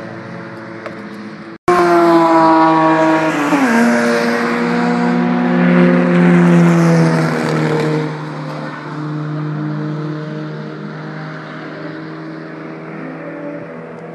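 Cars running at speed on a race circuit. After a brief cut-out just under two seconds in, one engine comes in loud and its pitch drops sharply about a second later. The engines then run steadily, loudest until about eight seconds in, and fade somewhat after that.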